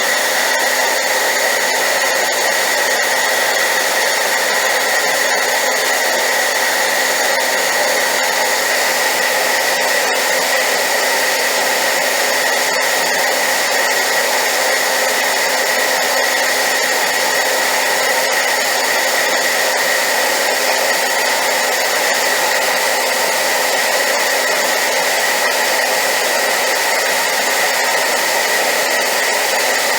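Hairdryer running continuously at high power: a loud, even rushing of air with a steady whine, played as a white-noise track for sleep.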